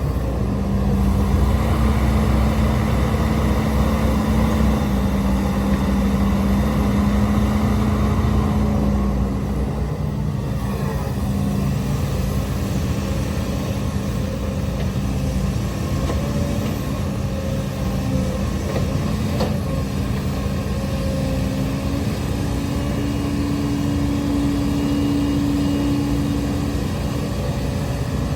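Hidromek HMK230LC excavator's diesel engine working under load while digging, a steady heavy engine note that is louder for the first nine seconds or so and then eases off a little. A higher steady tone joins in for a few seconds near the end.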